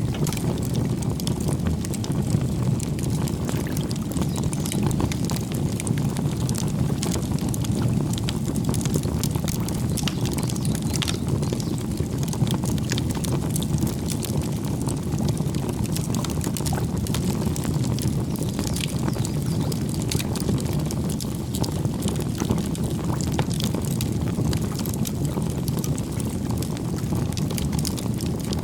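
Wood campfire burning: a steady low rumble of flames with frequent small crackles and pops throughout.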